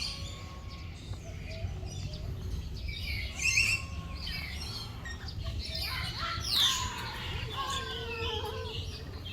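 Several caged birds chirping and calling. The calls are short and scattered, with a cluster about three and a half seconds in and a loud, steeply falling call about six and a half seconds in, over a steady low background rumble.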